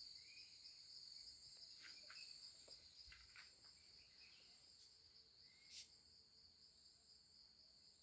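Faint, steady high-pitched insect chorus, crickets or similar, as a continuous trill. A few faint short clicks and chirps sound over it, the clearest about six seconds in.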